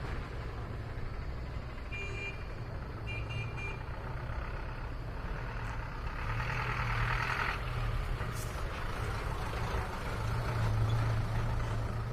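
Kalka–Shimla narrow-gauge toy train running, a steady low rumble. A couple of brief high squeals come about two and three seconds in, and a hissing stretch in the middle.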